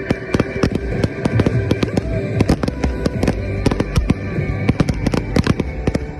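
Consumer fireworks finale: a rapid, continuous string of firework bangs and cracks, several a second, with music playing underneath.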